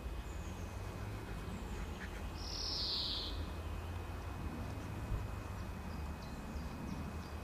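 Small birds chirping faintly over a steady low rumble, with one short, high hissing squeal lasting about a second, two and a half seconds in.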